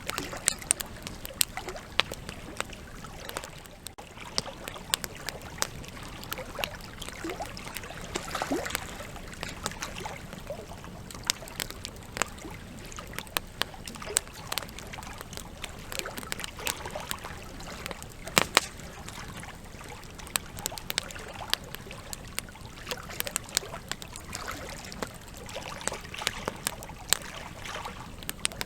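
Burning campfire logs crackling: an irregular stream of sharp pops and snaps over a steady hiss, with the loudest pop about two-thirds of the way through.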